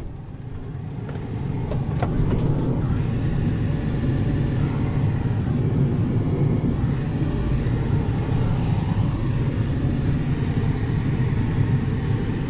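Truck engine idling steadily, with a couple of faint clicks about two seconds in.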